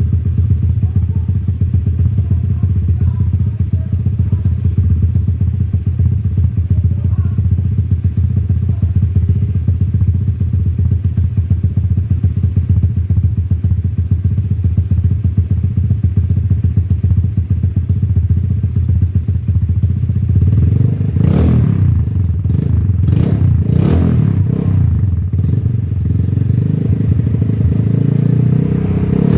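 Honda Vario 150 scooter's single-cylinder engine idling through a freshly fitted WRC full-system aftermarket exhaust, just after a cold start and still stuttering a little ('brebet'). About two-thirds of the way in the throttle is blipped several times in quick succession, with short rises in revs before it settles back to idle.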